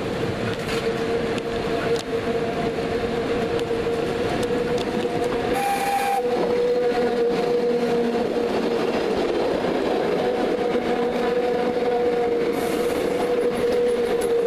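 The Train Jaune's electric metre-gauge train passing close by, a steady whine running over the rumble of its wheels on the rails. A short higher tone sounds about six seconds in.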